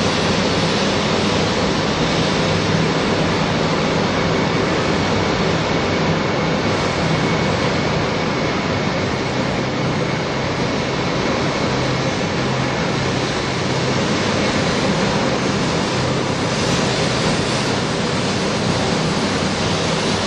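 200 series Shinkansen train running past, a steady, unbroken noise of wheels on rails and train body that holds at one level throughout.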